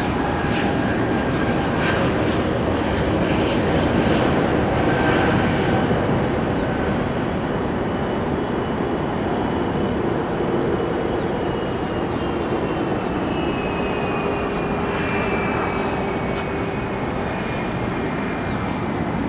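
Jet airliner engines at high power: a steady rushing noise, with a high whine that slowly falls in pitch over the second half.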